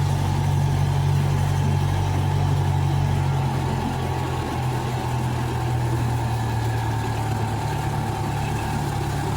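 Zoo train's locomotive engine running steadily, heard from aboard the train, with a steady high whine over the low drone. The engine note shifts slightly lower about four seconds in.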